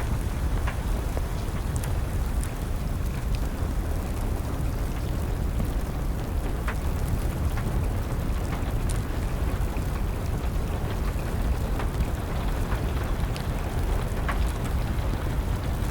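Steady rain with a low rumble, mixed with the scattered, irregular pops and snaps of a crackling wood fire.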